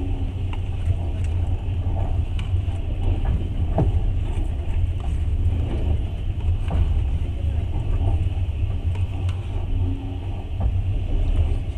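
Passenger train running at speed, heard from inside the carriage as a steady low rumble with a few faint scattered clicks.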